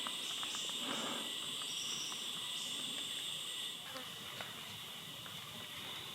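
Jungle insect chorus: a steady, high shrill drone, with a still higher buzzing layer that stops a little over halfway through.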